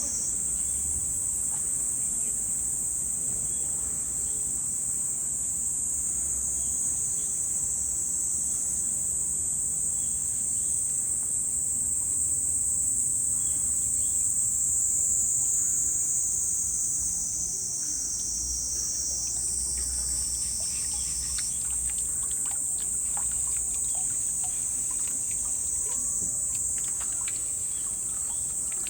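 Dense summer insect chorus: a steady, high-pitched shrill from several insects at once, one layer jumping higher in pitch about two-thirds of the way through. A faint low rumble and a few short bird chirps lie under it.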